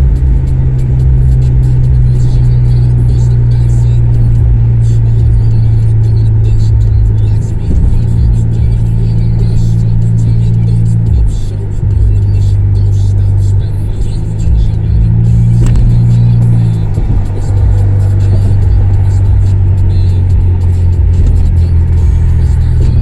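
Honda CR-V exhaust with the resonator and muffler removed, running with a loud low drone. The pitch rises for a few seconds about eight seconds in and again around fifteen seconds in, then settles back.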